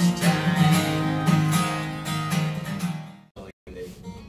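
Acoustic guitar strummed, the closing chords of a song, fading out about three seconds in; then a brief sudden dropout and quiet room sound.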